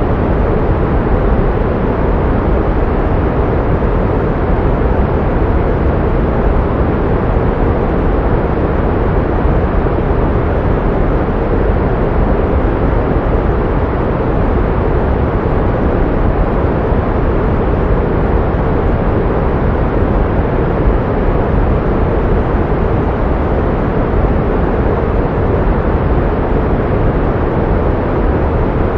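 Pink noise: a steady, even hiss with most of its weight in the low end, fading toward the top and with no changes or events.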